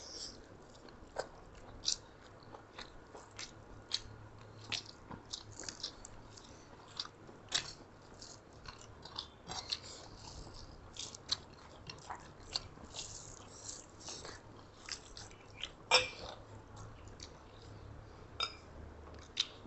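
Close-miked eating: chewing and mouth smacking on rice and meat, heard as a run of soft, irregular clicks. One sharper click comes late on.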